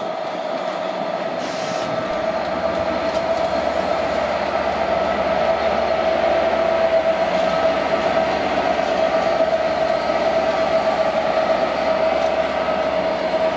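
A Class 67 diesel locomotive and its passenger coaches moving slowly through the station. The train runs steadily under a high, steady whine, growing gradually louder.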